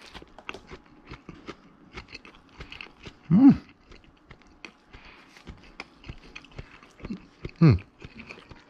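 Someone biting into and chewing a pulled pork sandwich on a soft bun, with small wet clicks of chewing close to the microphone throughout. Twice, about three and a half seconds in and again near the end, comes a short, loud voice-like sound: the first rises then falls in pitch, the second falls.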